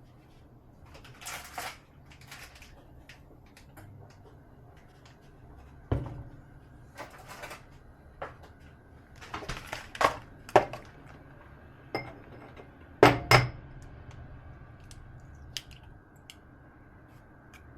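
Dishes and kitchen utensils being handled: scattered knocks and clinks with short rustles between them, the loudest a pair of knocks about thirteen seconds in.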